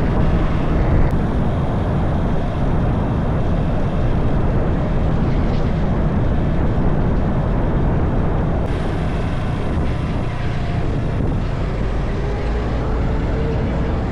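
Wuyang-Honda 190 motorcycle being ridden at a steady pace: engine running under a constant rush of wind noise on the microphone.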